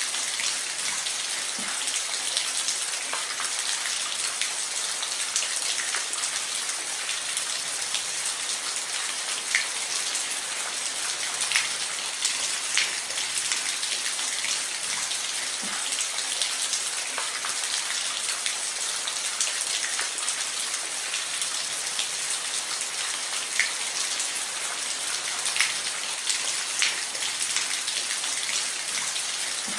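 Steady rain falling on a roof: an even hiss, with individual louder drop taps scattered through it.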